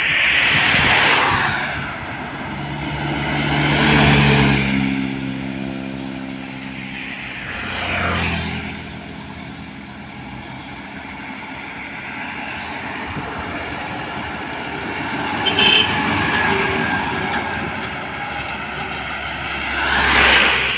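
Road traffic: heavy vehicles, trucks among them, drive past one after another, about five in all. One has a deep diesel engine note that drops in pitch as it goes by, and a short high squeal sounds about two thirds of the way in.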